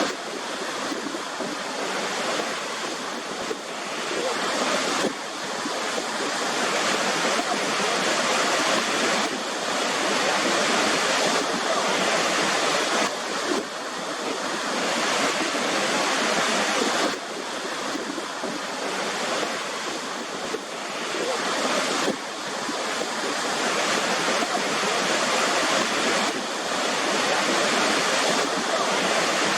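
Waterfall: a steady, dense rush of falling water, its level dipping slightly and recovering every few seconds.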